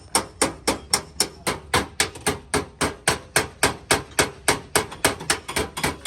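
Rapid, even hammer taps on a car's sheet-metal body panel, about five a second, as a dent is worked out by paintless dent repair.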